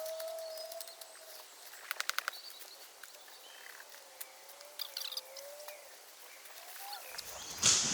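Quiet woodland ambience with birds calling: a slow wavering note early on and again midway, and a quick rattle of about eight clicks about two seconds in. A loud rustling noise starts just before the end.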